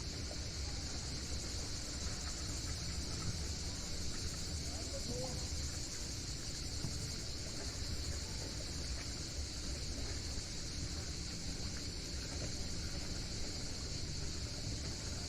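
Cicadas buzzing in a steady, unbroken high chorus over a constant low rumble.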